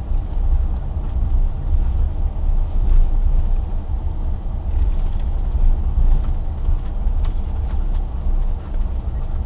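Steady low rumble of a vehicle in motion, heard from inside, with a few faint clicks.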